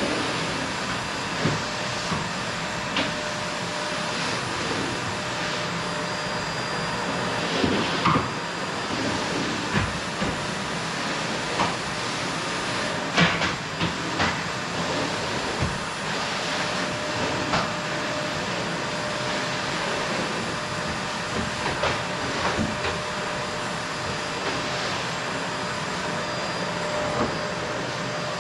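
Qilive vacuum cleaner running steadily while vacuuming a wooden floor, with irregular knocks and clicks throughout, the loudest about halfway through.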